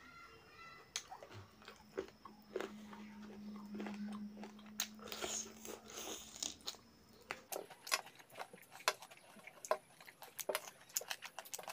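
Close mouth sounds of a man eating rice and mutton curry by hand: wet chewing and lip smacking, with the smacks coming quick and clicky in the second half. A low steady hum runs underneath for the first several seconds.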